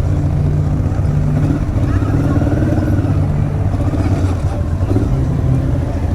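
Motorcycle engine running steadily at low speed, with voices faintly in the background.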